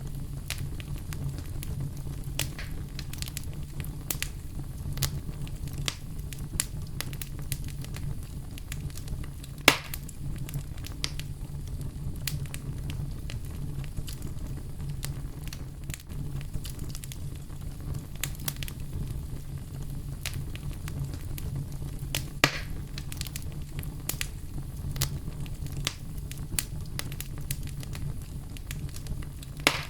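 Campfire burning: a steady low rumble with constant crackling and popping of the wood, and two louder pops near 10 s and 22 s in.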